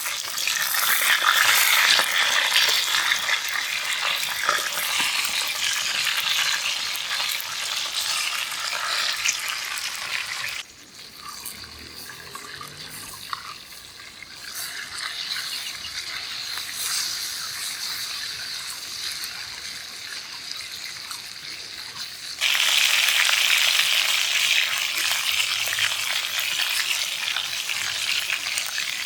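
Food sizzling in a hot pan over a campfire, a steady hiss. It drops to a quieter sizzle about a third of the way in, then jumps back to loud suddenly near the end.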